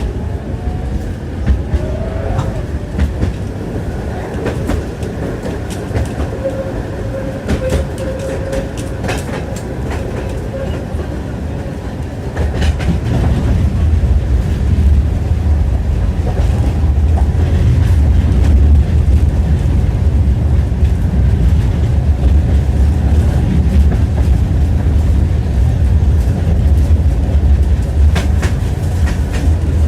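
Tram wheels clattering over rail joints, heard from inside the car as it runs, with a steady rumble that grows louder about twelve seconds in as the tram picks up speed.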